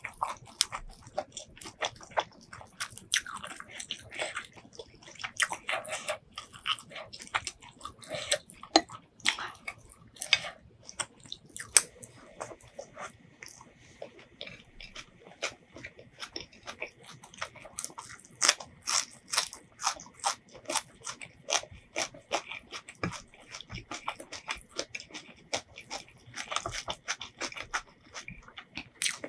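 Close-miked chewing and crunching: a mouthful of Thai pork liver larb with fried fish, rice and raw greens eaten by hand, with many sharp mouth clicks and smacks.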